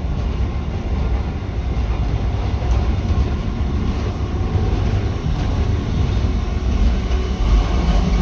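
Steady low rumble of an HST passenger coach running along the line, heard from inside the coach.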